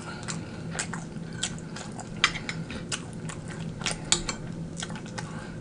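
Close-miked chewing of crispy fried chicken wings: irregular crunchy crackles and wet mouth clicks, over a faint steady low hum.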